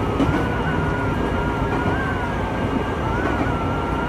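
Nagano Electric Railway local electric train running along the track, heard from inside the car: a steady rumble of wheels on rail with a faint whine that wavers in pitch.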